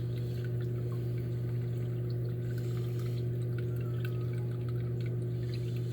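Hot tub's pump running with water circulating: a steady low hum under a wash of flowing water.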